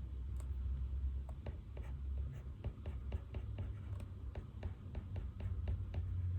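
Pen writing on paper: a quick run of short, scratchy strokes, about four a second, over a low steady hum.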